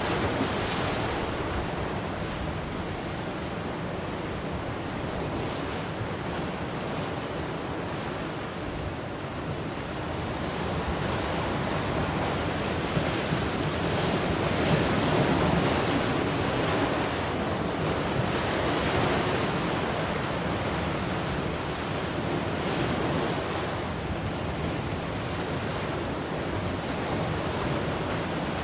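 Ocean waves breaking and washing on the shore in a continuous rush, swelling and easing slowly, with some wind noise on the microphone.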